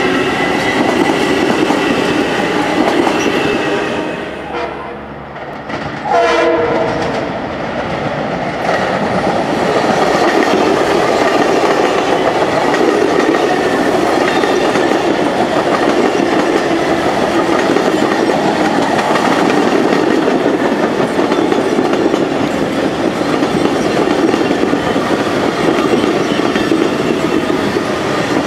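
Long Island Rail Road passenger train rolling through the station, a steady rumble with its wheels clacking over the rail joints. The sound dips briefly, then a short horn sounds about six seconds in, falling in pitch.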